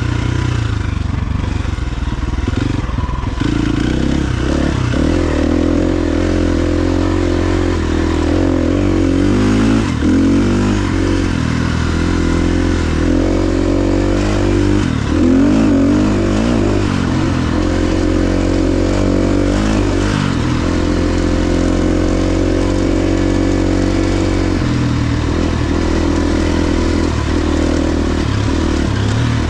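KTM 350 XC-F dirt bike's single-cylinder four-stroke engine running as it is ridden, its revs rising and falling again and again.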